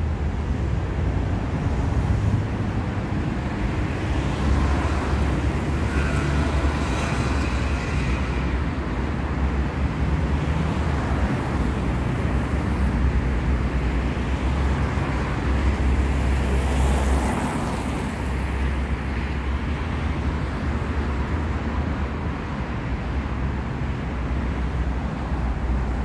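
City street traffic: a steady low rumble of passing cars and engines. There are faint tonal sounds about six to eight seconds in and a brief hiss about seventeen seconds in.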